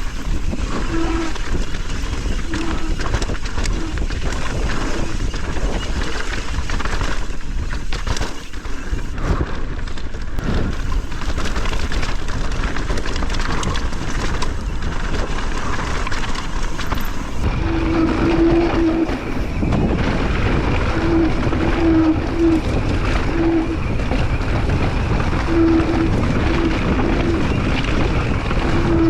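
Mountain bike riding down a dirt trail: a steady loud rush of wind on the microphone mixed with tyre and trail rattle. In the second half, short low hums come again and again.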